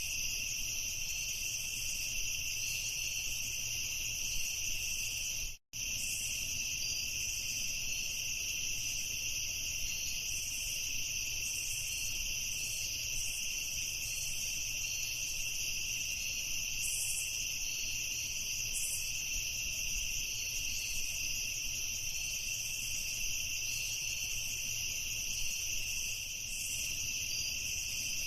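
Crickets chirring in a steady, dense chorus with a high, even pitch. It cuts out completely for a split second about six seconds in, then carries on unchanged.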